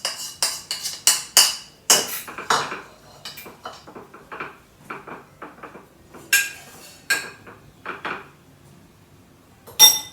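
A metal spoon clinking and scraping against a bowl while soaked bread is spooned across. There is a quick run of clinks at first, then softer scrapes with a few louder knocks, and one sharp clink near the end.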